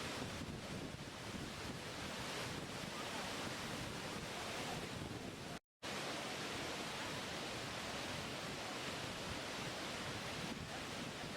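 Steady rushing roar of a waterfall, broken by a brief total dropout a little past halfway.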